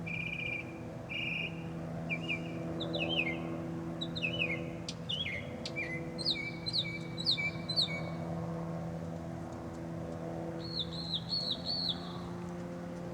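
Small birds chirping and singing: short trills, then a run of quick down-slurred chirps in the middle, and a few repeated arching notes near the end. A steady low hum runs underneath.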